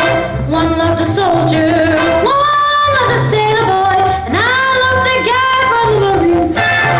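Female vocal trio singing a 1940s swing song in three-part close harmony, with held notes and vibrato, over instrumental accompaniment with a steady bass line.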